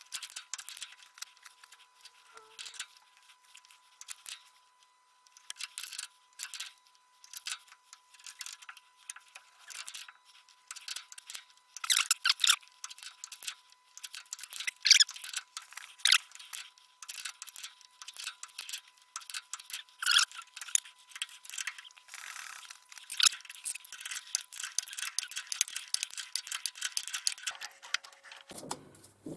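Irregular metal-on-metal scraping and clicking as hand tools work a small metal part, in clusters of sharper strokes, over a faint steady high hum.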